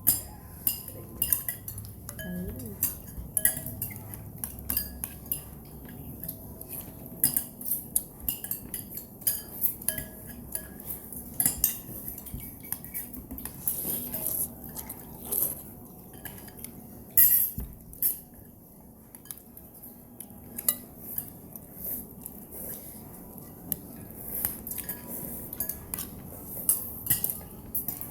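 Spoon and fork clinking and scraping against a bowl while eating instant noodle soup, in irregular sharp clinks a few times a second.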